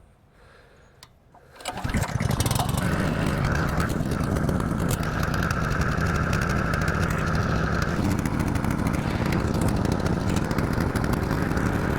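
Honda GX200 single-cylinder four-stroke engine on a 3-inch water pump catching about two seconds in and then running steadily. The pump is not yet drawing water, which the owner puts down to needing more priming water.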